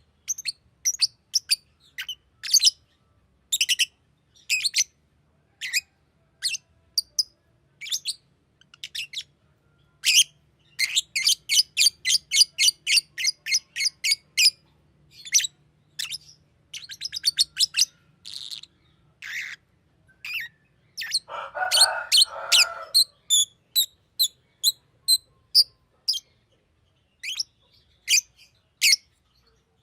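Green lovebird chirping: sharp, high chirps, some single and some in fast runs of about five a second, with a harsher, lower squawky call about two-thirds of the way through.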